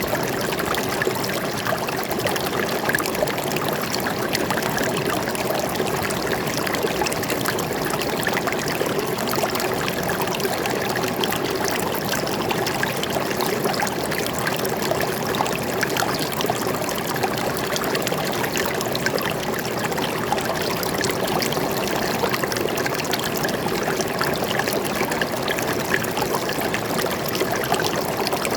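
Water flowing steadily over stones in a forest stream, a continuous trickling, splashing rush with no pauses or changes.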